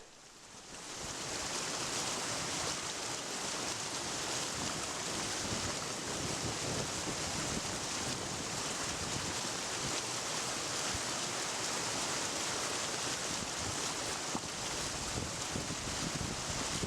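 Steady rushing outdoor ambience, an even hiss that fades in over about the first second and then holds level.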